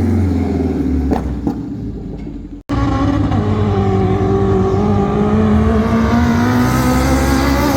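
Tuned car engine running hard, fading away; a sudden cut about two and a half seconds in, then another loud engine pulling under load with its pitch rising slowly and then holding.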